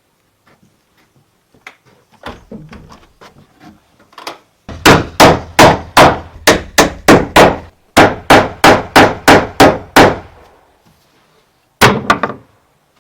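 Hammer blows: a few lighter knocks, then two fast runs of hard strikes at about three a second, and a final couple of blows near the end.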